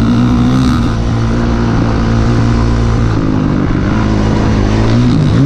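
Dirt bike engine running at a steady pace under a rider, heard on board with wind noise; the engine note dips and picks up again near the end.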